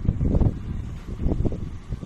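Wind buffeting the microphone: a low, gusty rumble that swells and dips.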